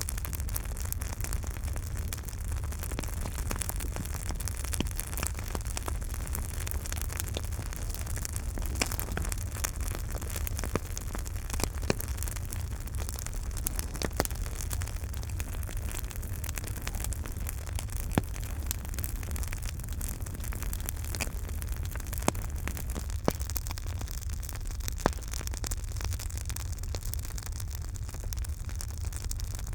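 Campfire burning: a steady low rush of flames with frequent small crackles and pops, and a handful of sharper pops now and then.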